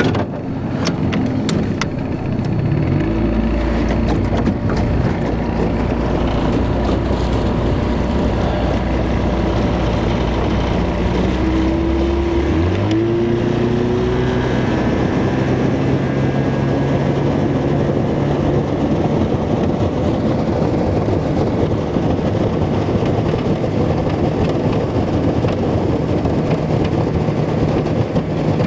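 Small boat's outboard motor running under way. It picks up speed about three seconds in and again around twelve seconds, then runs at a steady pitch.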